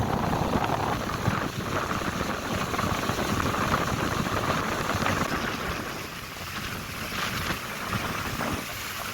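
Wind buffeting the microphone over a steady hiss of rain during a tropical storm, with a gusty low rumble that eases a little past the middle.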